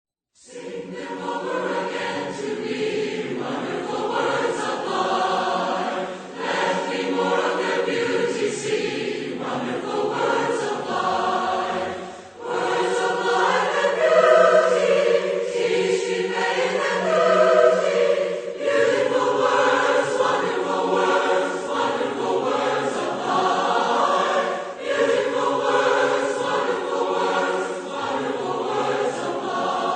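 Choir singing, in phrases broken by brief pauses.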